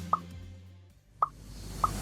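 Three short, quick plops, like drops of water, one just after the start, one a little past the middle and one near the end, over the tail of fading background music.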